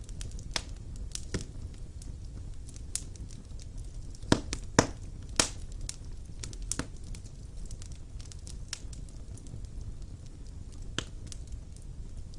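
Wood fire burning in a stone fireplace: a steady low rumble of flames with irregular sharp crackles and pops, three louder pops close together about four to five and a half seconds in.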